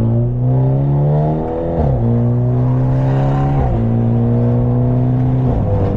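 Straight-piped, catless exhaust of a BMW G30 530's turbocharged four-cylinder engine under acceleration: the note climbs steadily in pitch, drops sharply three times as the automatic gearbox upshifts, and climbs again after each shift.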